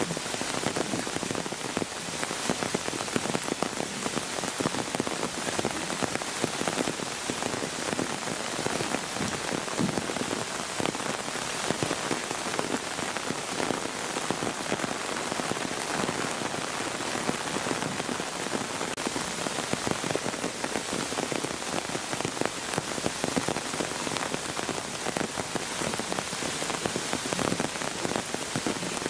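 Steady rain falling, a dense, even hiss of many small drop hits on the ground and rocks.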